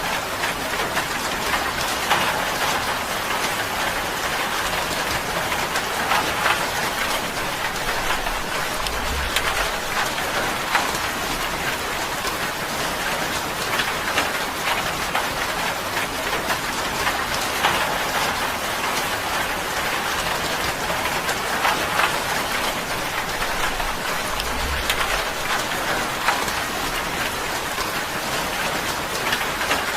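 Steady rain drumming on a tin roof: a dense, even patter of drops that neither builds nor eases.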